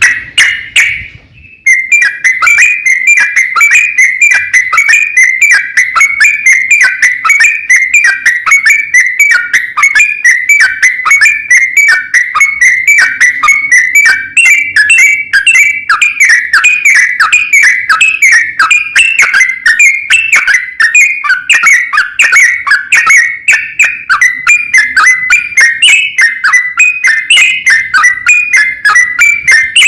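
Yellow-vented bulbul (trucukan) singing a long, rapid, unbroken run of short chattering notes. The song starts after a short pause in the first couple of seconds.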